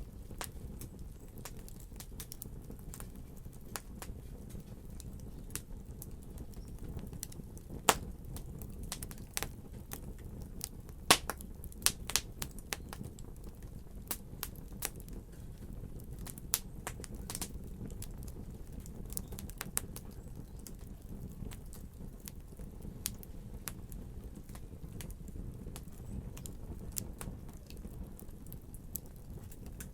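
Wood fire crackling: a steady low rumble of the flames under irregular sharp snaps and pops, with a few louder pops about eight and eleven seconds in.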